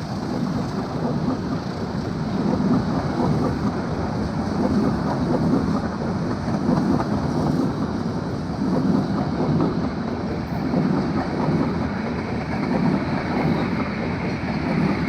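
Passenger train rolling past, a steady rumble of wheels on rail that swells and fades in a regular rhythm.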